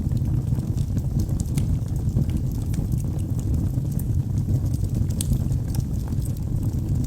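Wood logs burning in a fireplace: a steady low rumble of the flames with frequent small, sharp crackles and pops.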